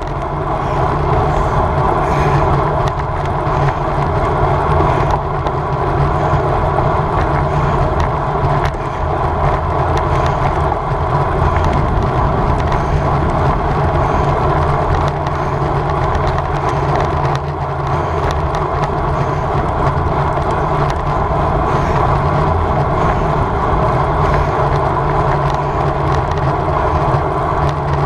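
Wind rushing over the microphone of a camera on a road bicycle being ridden fast, a loud, steady noise with the hum of tyres and drivetrain under it.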